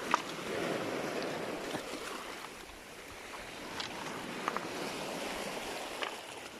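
Sea water washing over a stony shore in a steady rush that swells early on, broken by a few sharp clicks.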